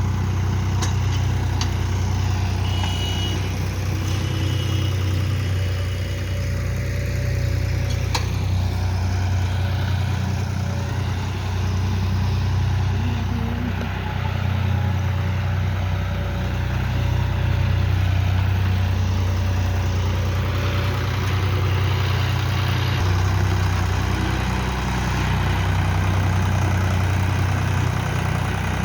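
John Deere tractor engine running steadily with a low, even drone.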